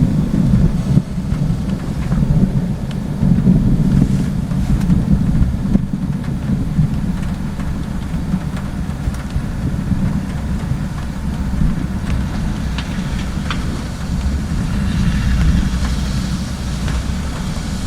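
Deep, low rumble of thunder rolling on for many seconds, mixed with wind on the microphone.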